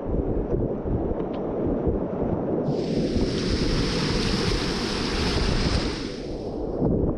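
Whitewater rapids rushing past a kayak, heard as a steady low rumble. From about three seconds in, a bright hiss of spray and splashing joins it and cuts off just before the end.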